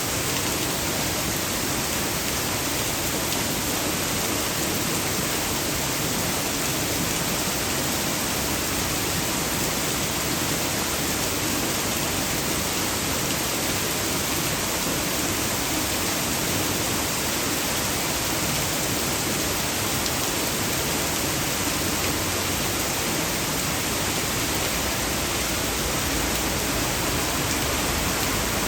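Torrential rain pouring down, with rainwater rushing and gushing out of an overflowing storm drain: a steady, dense hiss.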